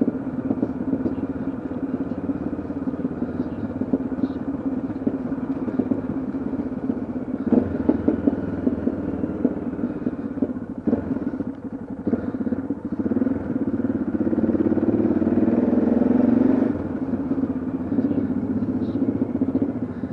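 Yamaha XT660Z Ténéré's single-cylinder engine running while riding, a steady throb. The engine grows louder about two-thirds of the way in, then drops off suddenly near the end.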